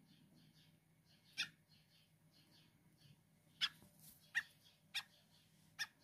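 Fledgling bird held in the hand giving five short, sharp chirps, spaced irregularly about half a second to two seconds apart, with faint quick high peeps running between them.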